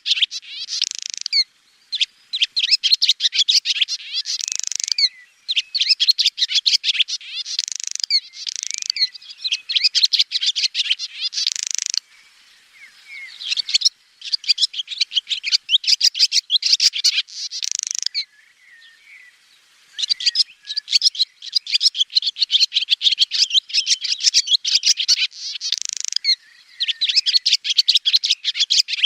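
Swallow song: long phrases of rapid, high twittering chirps, each a few seconds long, with two short lulls about twelve and eighteen seconds in.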